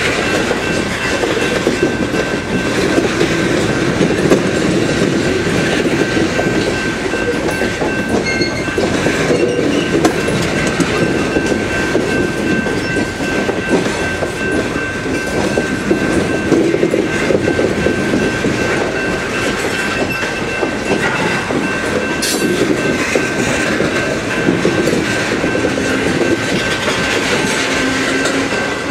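Loaded coal train's cars rolling past: a steady rumble of steel wheels with clickety-clack over the rail joints. A thin, steady high tone runs underneath.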